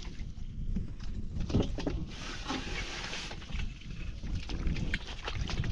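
Water sloshing and splashing around hands or legs working in shallow flowing water, with scattered small knocks. A short burst of hissing splash about two seconds in lasts about a second.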